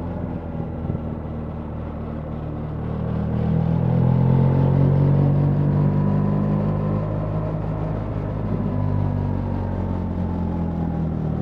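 BMW R 1300 GS boxer-twin engine running under way with wind noise; a few seconds in the engine note rises and grows louder as the bike accelerates, then eases off and drops in pitch.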